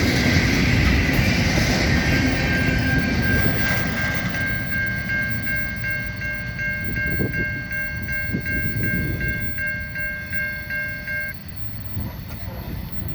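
Freight cars rolling past a grade crossing, a loud steady rumble that slowly fades. Over it the crossing's warning bell rings with a rapid, even ding and stops abruptly a couple of seconds before the end.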